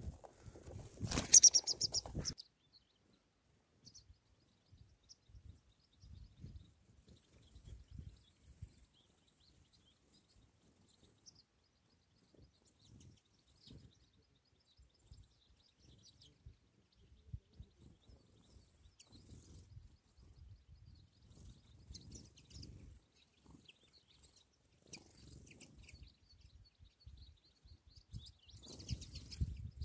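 Faint, scattered chirps of small birds over low, gusty rumbling of wind on the microphone, with a brief loud rustle about a second in and another near the end.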